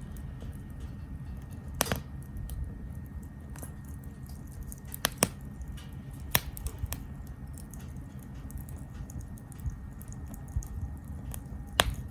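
Wood campfire crackling in a small grill: frequent small ticks with a few sharp pops, over a low steady rumble.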